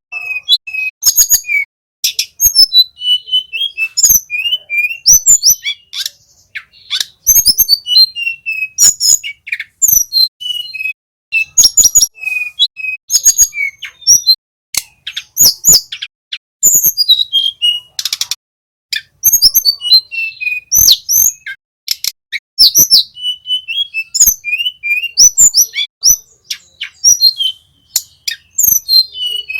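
Tledekan gunung (a small flycatcher) singing a rapid, chattering song of high whistled notes and falling slurs, broken up by sharp clicks, with short pauses between phrases.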